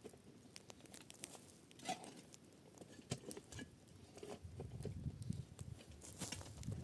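Irregular crunching and crackling in snow, with a low rumble of wind on the microphone building in the second half.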